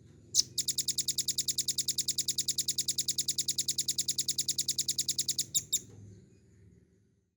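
Velvet-fronted nuthatch song: a single sharp note, then a fast, even, high-pitched trill of about nine notes a second lasting about five seconds, ending in two separate notes.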